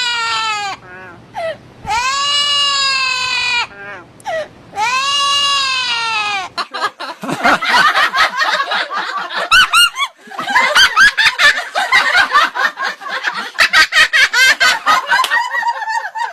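A high-pitched voice giving three long wailing cries that fall in pitch, then breaking into rapid, choppy cackling laughter from about six seconds in.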